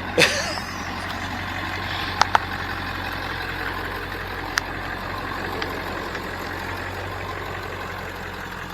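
Truck engine idling steadily, with a brief sharp sweeping sound just after the start and a few sharp clicks, two about two seconds in and one more near the middle.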